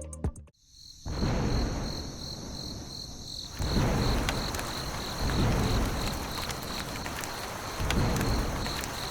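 Outdoor background noise: a low rumble that swells and fades every second or two, under a steady high, rapidly pulsing chirr.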